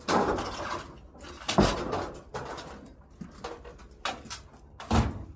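Several thuds and knocks with clattering between them; the loudest thumps come about a second and a half in and near the end.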